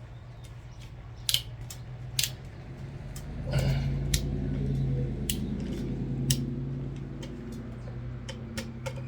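Scattered sharp metal clicks from a hand ratchet and socket as the timing cover bolts are run down on an LS 5.3 V8. A steady low hum comes up about three and a half seconds in.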